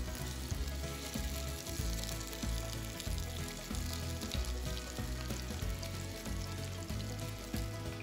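Squares of firm tofu sizzling steadily as they pan-fry in oil in a nonstick frying pan, turned over with tongs.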